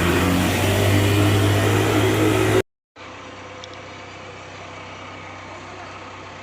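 A motor vehicle's engine running with a steady low hum. It cuts off abruptly about two and a half seconds in, followed by a much quieter steady background rumble of street noise.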